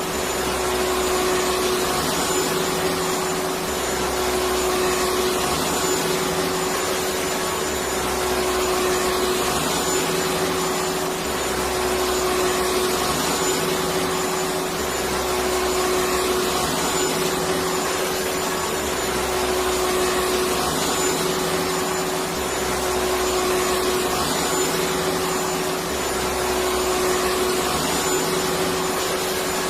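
Electric vacuum cleaner running steadily: an even rushing noise with a constant whine, and a low hum underneath that comes and goes about every four seconds.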